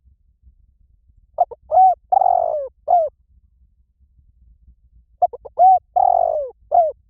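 Spotted dove calling: two cooing phrases about four seconds apart. Each phrase opens with a few short arched notes, swells into a longer coo that falls in pitch, and ends on a short note.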